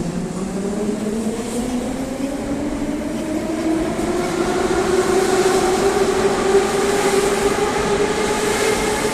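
Moscow metro 81-717/714 ('nomernoy') train's traction motors whining, rising steadily in pitch as the train picks up speed, over the rumble of the wheels on the rails.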